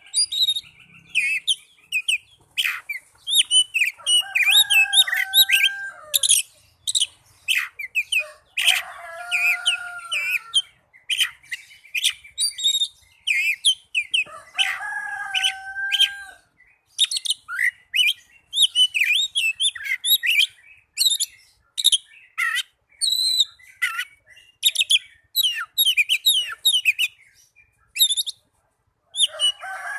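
Oriental magpie-robin (kacer) song: a fast, varied run of chirps, trills and whistles. A lower, drawn-out two-toned call breaks in three times, at about 4, 9 and 14 seconds.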